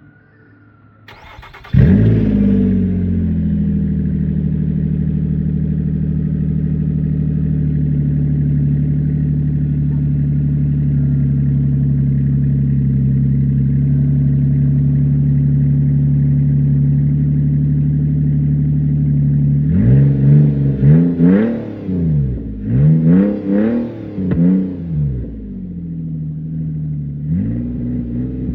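A 2012 Nissan Maxima's 3.5-litre V6 cranks briefly and fires up on a cold start, flaring and then settling into a steady, loud idle through an exhaust with only the catalytic converter left and no muffler. About twenty seconds in it is revved in four quick blips, drops back to idle, and starts revving again near the end.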